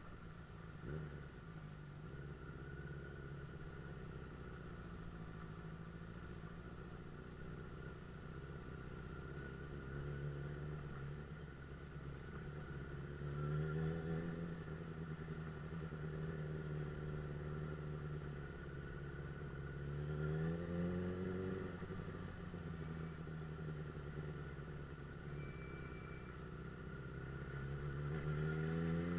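Suzuki GSF 600 Bandit S inline-four engine running under way, rising in pitch as the throttle opens about halfway through, again around two-thirds through, and near the end.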